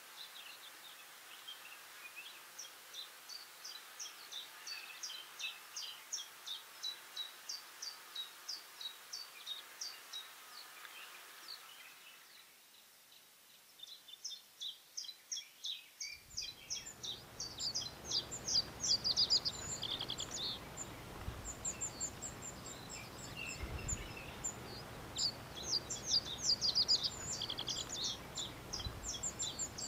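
Small songbirds singing, a long run of quick, high chirps and trills repeating several times a second. About halfway through, a low rumble joins underneath the birdsong.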